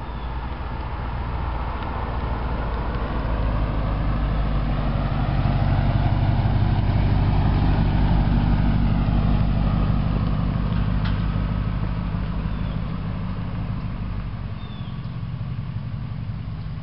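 Open-top sports car's engine running as it drives up, passes close by and moves away, growing louder to a peak about halfway through and then fading.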